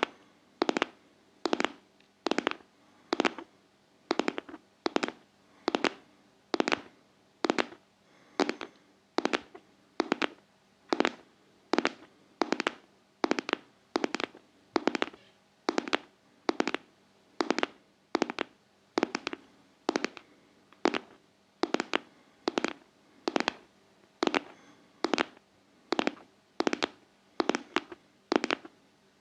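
ASMR 'heart-tapping': sharp fingertip taps, about one a second, in a steady, even rhythm.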